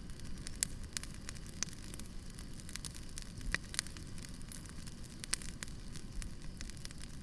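Wood campfire burning, crackling with irregular sharp pops and snaps over a low, steady rush.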